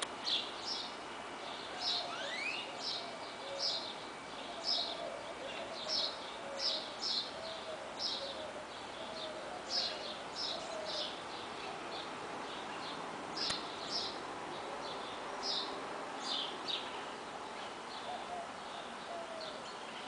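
Small birds chirping: short, high chirps repeated about one to two a second, over a steady wash of distant road traffic.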